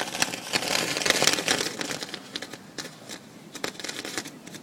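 Set-piece fireworks crackling: a dense run of sharp pops and crackles for the first two seconds, thinning out to scattered pops that die away near the end.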